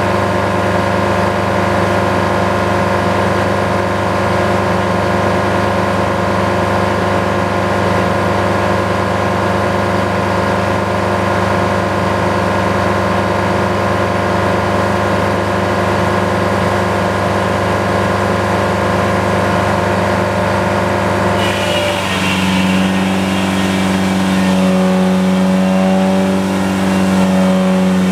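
Detroit diesel engine powering a sawmill, running steadily. About three-quarters of the way through, its note changes, growing slightly louder and joined by a higher, wavering tone.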